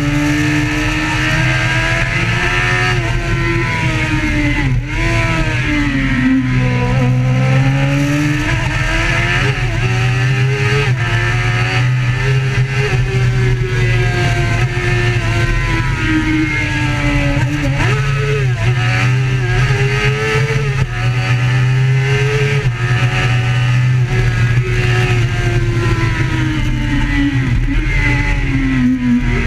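A road vehicle's engine running hard and continuously. Its pitch rises and falls again and again as it speeds up and eases off, and it drops off near the end.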